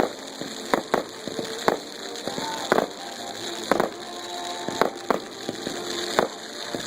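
Consumer fireworks going off with sharp pops about once a second over a steady crackling hiss, while a song plays in the background.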